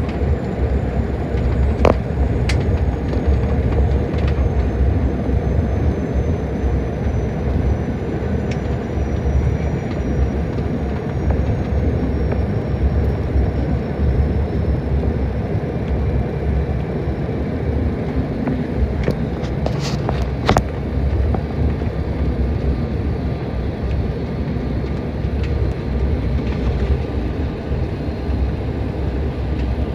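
Steady cabin noise of an airliner: a deep rumble of engines and airflow, with a faint high whine slowly falling in pitch over the first ten seconds or so. A few sharp clicks come through, one about two seconds in and a cluster around twenty seconds in.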